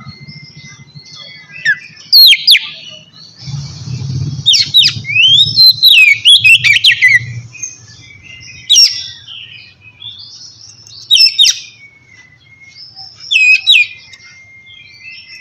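Oriental magpie-robin singing clear, loud whistled phrases in separate bursts of sharp sweeping notes and quick trills, the longest phrase in the middle. A faint low hum runs underneath.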